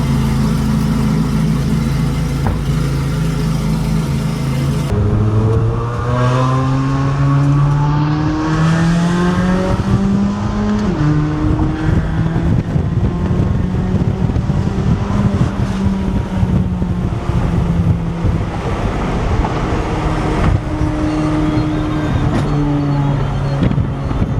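C8 Corvette Z06's flat-plane-crank V8 through a titanium exhaust, running steadily at first. About five seconds in, the pitch rises as the car accelerates, then drops sharply on a gear change near eleven seconds. After that the car drives on, the engine note stepping up and down.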